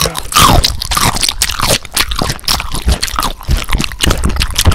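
Close-miked ASMR eating sounds: loud, rapid crunching and chewing of crunchy food, with a few wet squishes in the first second.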